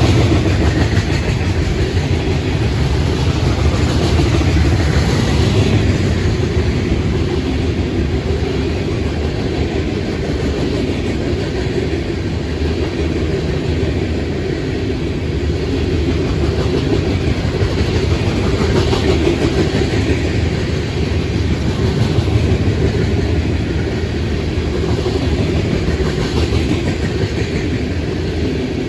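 Freight cars (boxcars, then open-top rock hopper cars) rolling steadily past: a continuous low rumble of steel wheels on rail.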